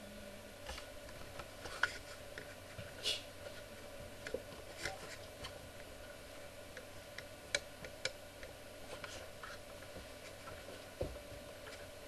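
Faint scattered clicks and taps, about a dozen, irregularly spaced over a low steady hum, with a few louder ones about two, three and seven seconds in.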